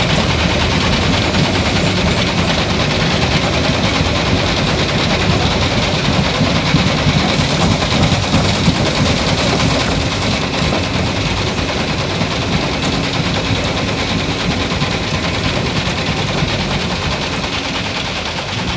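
A small motor running steadily with a continuous rapid mechanical rattle, fading slightly near the end.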